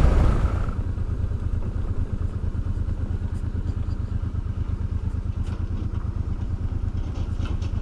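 Honda Deauville's V-twin motorcycle engine idling at a standstill with an even low pulse. The rush of riding wind fades out about a second in.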